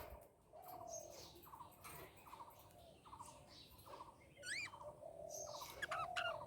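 Budgerigars chirping softly in a run of short, quick chirps, with one curved whistle rising and falling about four and a half seconds in.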